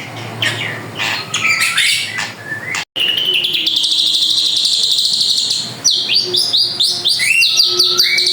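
Drongo singing a varied run of loud chirps and whistles. The song breaks off for an instant about three seconds in, then goes on with a fast, dense trill and more sweeping notes.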